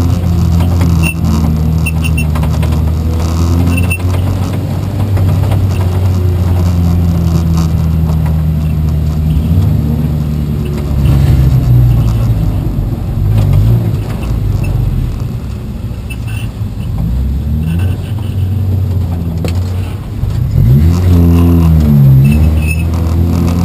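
A race car's engine running loud and steady, its pitch dipping and climbing back about halfway through and again near the end.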